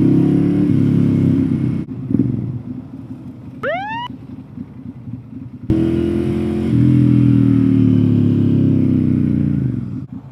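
Ducati Monster's L-twin engine through a Termignoni exhaust, running hard under throttle, easing off about two seconds in and pulling hard again from about six seconds in to near the end. A short rising whoop sounds about three and a half seconds in.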